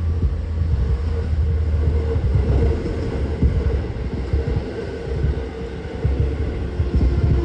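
Toei 10-300 series electric train car running at speed: a steady low rumble of wheels on the rails, with frequent short knocks and a steady tone over it.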